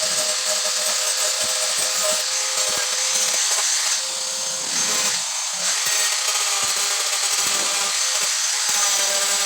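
Small electric power tool running steadily under load, a continuous high whine with a grinding hiss.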